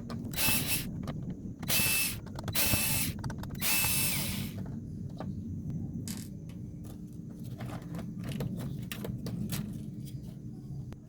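Small power screwdriver whirring in four short bursts as screws are backed out of the speaker's control board, followed by light clicks and clatter of parts being handled.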